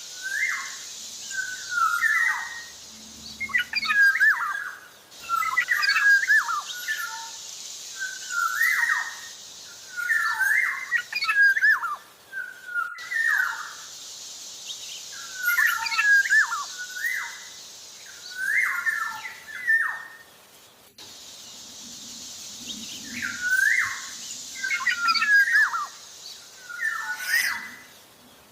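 Black-naped oriole (kepodang) singing actively, giving short, loud whistled phrases that bend up and down in pitch, repeated about every second or so. A steady high hiss runs behind it and breaks off briefly every eight seconds or so.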